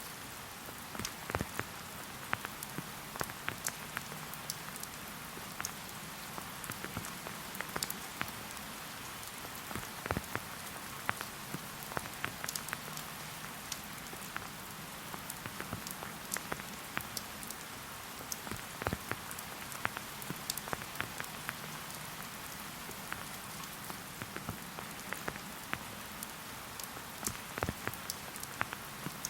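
Steady rain falling in a forest, an even hiss with many separate drops ticking close by.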